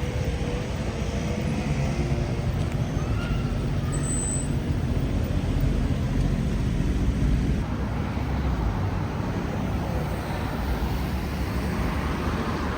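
Steady road traffic noise, a continuous rumble of passing cars and buses.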